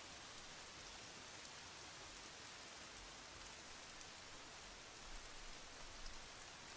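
Steady light rain falling: a faint, even hiss with scattered drops ticking, a few a little louder about five and six seconds in.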